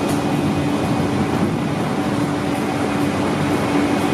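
London Underground Central Line 1992 Stock train running at the platform: a steady, loud rumble with a held humming tone.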